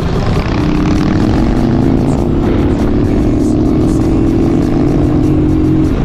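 Motorcycle engine running at steady revs while riding, a steady engine note over heavy wind rumble on the microphone.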